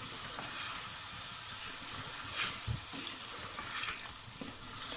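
Chicken pieces frying in oil and ground spices in an aluminium pressure-cooker pot, sizzling steadily as they are browned on a medium flame. A spatula stirs them, with a couple of faint scrapes against the pot about halfway through and near the end.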